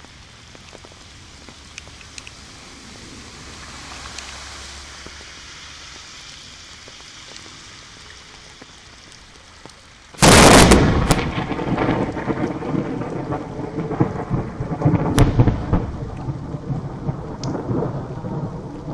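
Heavy rain falling steadily, then about ten seconds in a sudden loud thunderclap that rolls on as a long rumble of thunder over the rain.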